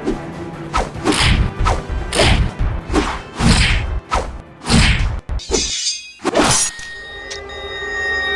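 Fight sound effects over background music: a rapid run of about ten whooshing swings and punch impacts, which stop a little before the end while the music carries on.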